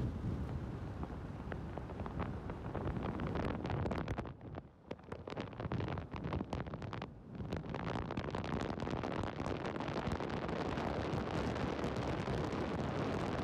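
Wind buffeting the microphone of a camera riding in a moving car: a gusty, crackling rush that drops away briefly twice about halfway through.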